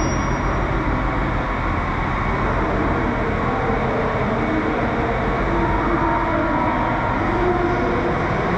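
A train running with a steady rumble, with faint tones that come and go over the last few seconds.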